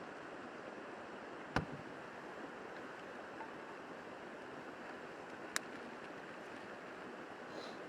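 River rushing steadily past the campsite. A sharp knock about a second and a half in and a lighter click about five and a half seconds in.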